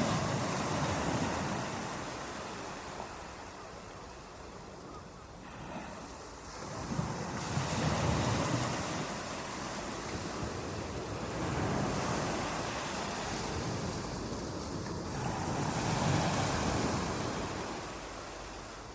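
Ocean waves washing in, the surf swelling and ebbing in slow surges about every four seconds.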